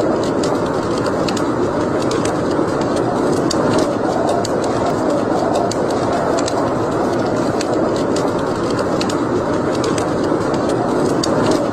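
Wood fire burning in a fireplace: a steady rush of flames with frequent irregular crackles and pops.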